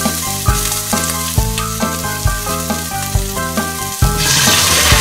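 Sliced onions and garlic sizzling in olive oil in a stainless steel pot as a wooden spatula stirs them. About four seconds in, the sizzle grows louder as coconut cream goes into the hot pot. Background music with a steady beat plays underneath.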